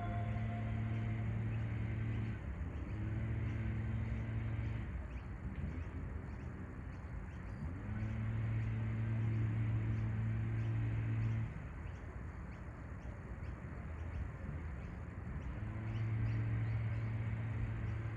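A low, steady mechanical hum, like a motor or engine running, that starts and stops several times in stretches of a few seconds each, over faint outdoor background noise.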